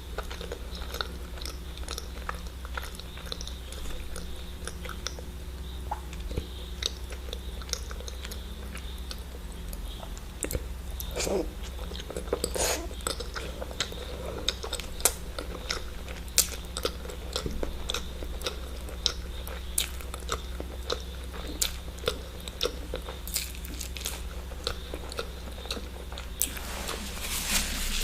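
Close-miked eating: a person biting and chewing eggs, with many short sharp mouth clicks over a steady low hum. Near the end a rustling noise rises.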